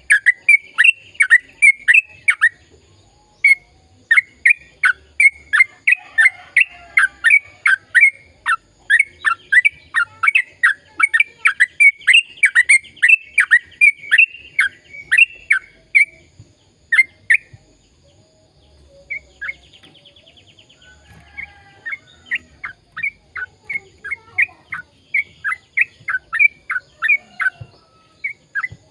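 Yellow-vented bulbul (trucukan) singing long runs of rapid, repeated downward-sliding notes, about three to four a second, with short breaks about three seconds in and again past the middle.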